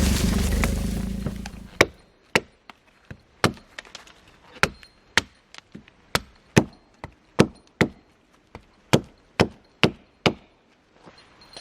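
A hand tool striking wood in a steady series of about twenty sharp knocks, roughly two a second, as when chopping with a hatchet. It follows a loud rushing noise that fades out in the first second or two.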